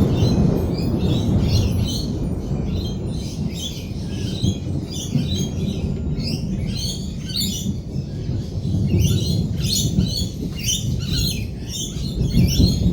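A flock of lorikeets chattering and screeching in rapid short calls, over a continuous low rumble of rolling thunder that swells at the start and again near the end.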